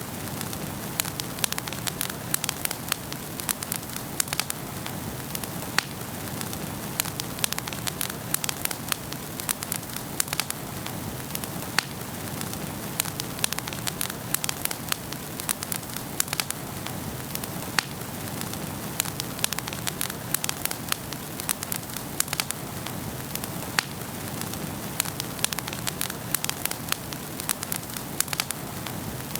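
Wood fire burning in a fireplace, with steady hiss and frequent sharp, irregular crackles and pops.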